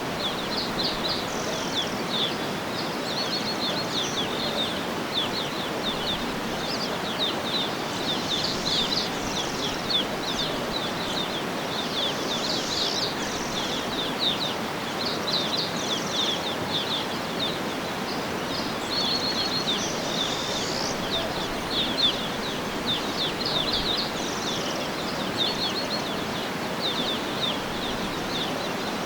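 Birds chirping and trilling continuously in many short, high calls, over a steady background hiss.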